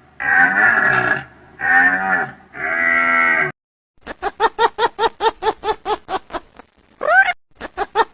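A deer calling: three long, pitched bellows in the first three and a half seconds. From about four seconds comes a quick run of short, clipped calls, about five a second, with one rising call near seven seconds.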